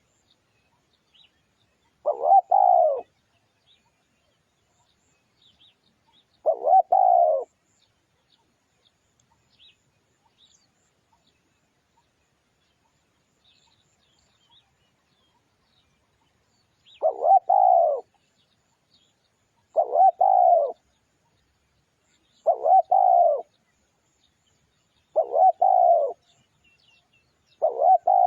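Spotted dove cooing: seven short phrases of about a second each, two spaced apart in the first half, then five in quick succession about every three seconds from the middle on.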